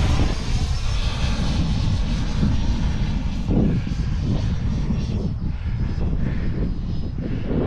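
Electric ducted fans of a Freewing Eurofighter Typhoon RC jet running in flight, with heavy wind buffeting the microphone as a steady low rumble.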